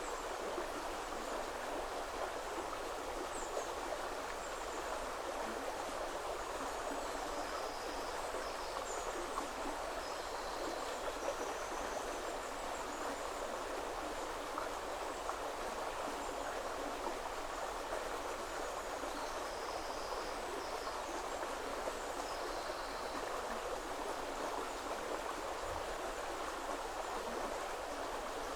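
River water flowing with a steady rushing hiss, and faint, short, high-pitched bird calls scattered through it.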